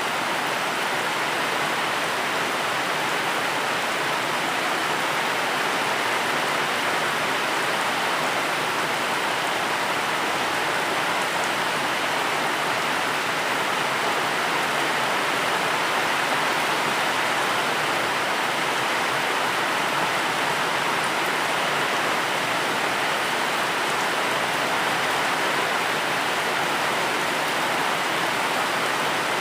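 Steady rain falling, a continuous even hiss without separate drops or thunder.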